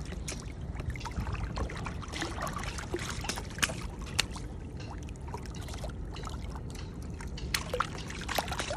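Water lapping and trickling against a kayak's hull over a steady low rumble, with scattered light clicks and knocks.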